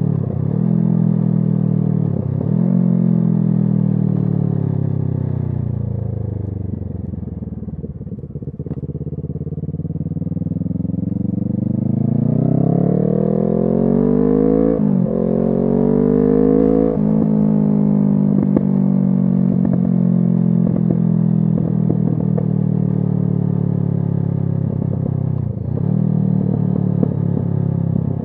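2017 Kawasaki Z650's parallel-twin engine through an SC Project aftermarket exhaust while riding. Two quick upshifts near the start, then the revs sink as the throttle is rolled off, climb again under acceleration with two more upshifts about halfway through, and settle to a steady cruise, with one more shift near the end.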